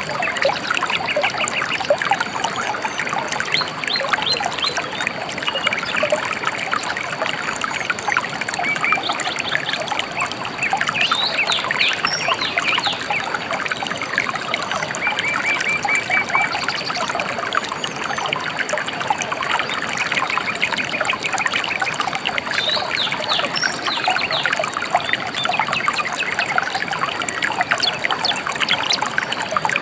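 Shallow river trickling and babbling steadily, with small birds chirping and trilling over it in short repeated phrases.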